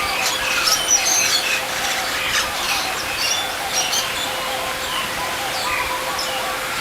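Many birds chirping and calling at once, short overlapping chirps and whistles, with a faint steady hum beneath.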